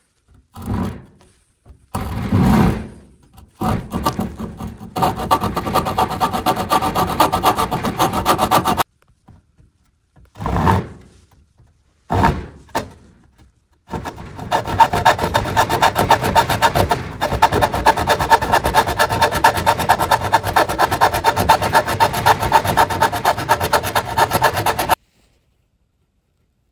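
Abrasive work on wood, rapid rubbing strokes, as a patched spot on a wooden table is shaped and smoothed. It comes in a few short bursts, then two long spells of fast, even strokes with abrupt stops between them.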